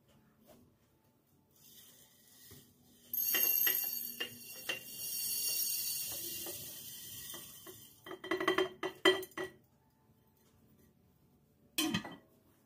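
Kitchen work: a steady hiss for about four seconds with small clicks through it, then dishes and utensils clinking against each other in a quick run, and one more clink near the end.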